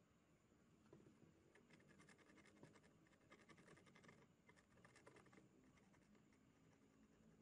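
Very faint scratching made of fast small ticks, in spells between about one and a half and five seconds in: a small tool scraping a circuit board.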